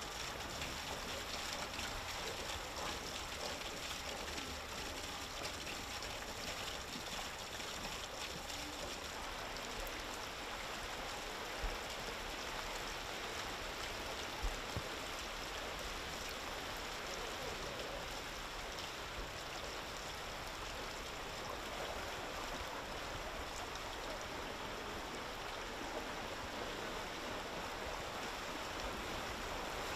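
Heavy rain falling steadily on a flooded street, an even hiss with no let-up, with two brief low bumps about twelve and fifteen seconds in.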